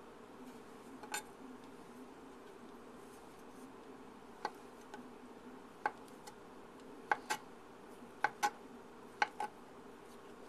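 Kitchen utensils clicking and tapping against a dish: about nine short, light clicks, several in close pairs, over a steady low hum.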